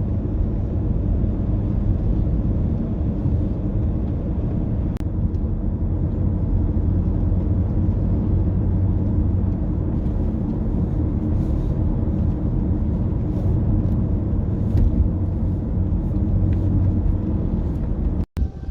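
A car on the move: a steady low rumble of engine and road noise, which breaks off abruptly near the end.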